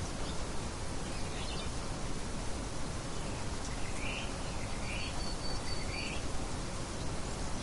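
Birds chirping over a steady hiss of outdoor nature ambience. There is a faint call early on, then three short rising chirps a second or so apart about four to six seconds in, with a thin high whistle held briefly among them.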